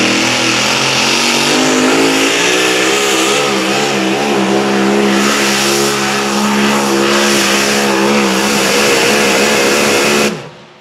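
Alcohol-burning pulling tractor engine running hard at steady high revs, its pitch wavering slightly; the sound cuts off suddenly near the end.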